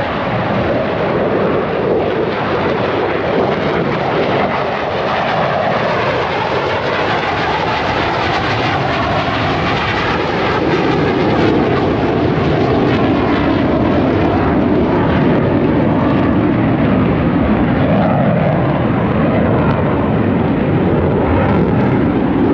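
Thunderbirds F-16 fighter jets taking off: a loud, steady jet engine noise that grows a little louder about halfway through.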